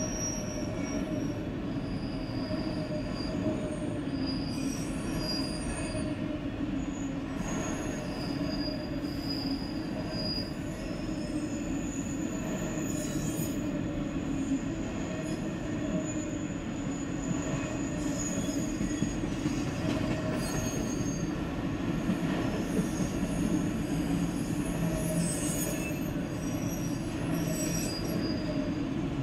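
Freight train of autorack cars rolling past at close range, with a steady rumble of wheels on rail. Thin, high-pitched wheel squeals come and go over it every few seconds.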